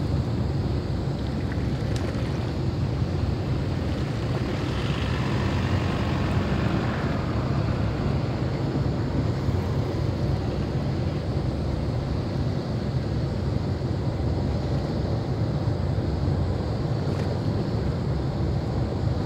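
Steady low rumble with wind noise on the microphone. A brief hiss swells and fades about five to seven seconds in.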